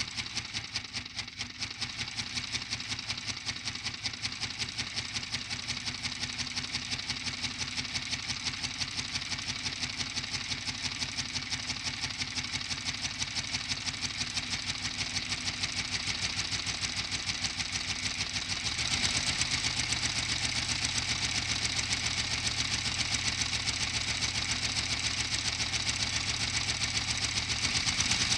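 Lego model inline-12 two-stroke diesel engine, built from three coupled Lego Detroit Diesel 4-71s, running with a rapid, even clatter. It gets louder about 19 seconds in.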